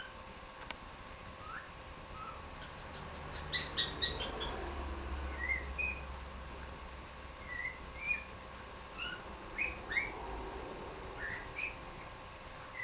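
Pet cockatiel chirping and whistling: a string of short whistled notes, some rising and some falling, with a quick burst of sharper chirps about four seconds in.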